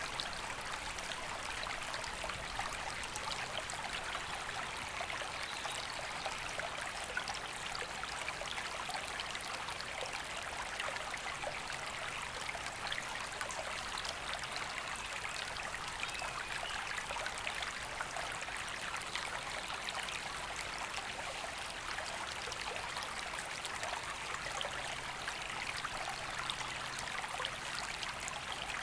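A woodland river flowing steadily over stones: an even, unbroken rush of water.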